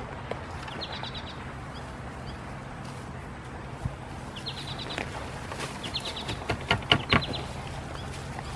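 A small bird chirping in short, rapid trills, several times over. Around six to seven seconds in, a few sharp rustles and snaps as a plant is pulled up by its roots out of the soil.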